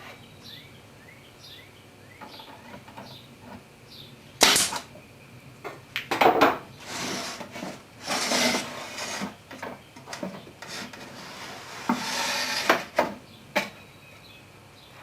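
Wooden birdhouse boards being handled and knocked together: several sharp knocks, the loudest about four and a half seconds in, mixed with scraping and rustling of the wood. Birds chirp faintly in the first couple of seconds.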